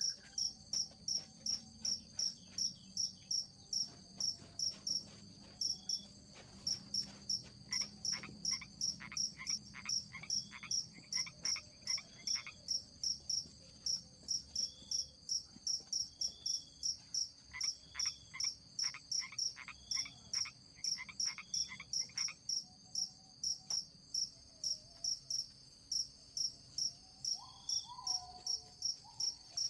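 Forest night chorus: an insect, likely a cricket, chirps steadily in high pulses about two and a half times a second. Twice, a frog joins with a run of quick, rising croaking calls at about the same pace.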